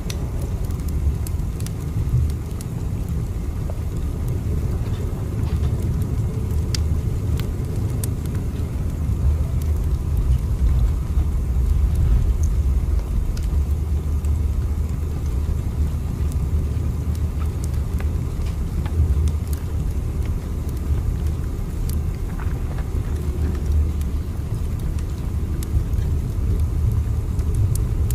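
A train running: a steady deep rumble with faint, scattered ticks over it.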